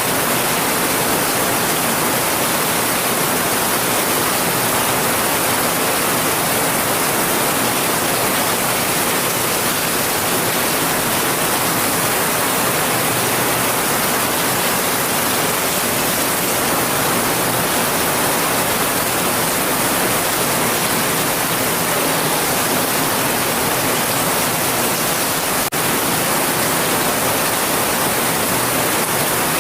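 Steady heavy rain, an even hiss with no letup and no distinct drops or thunder; a tiny click near the end.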